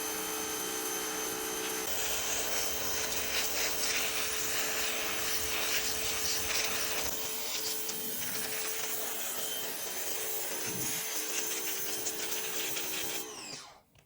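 A small electric power tool running with a steady whine while it scrapes and rubs against a part. It fades out near the end.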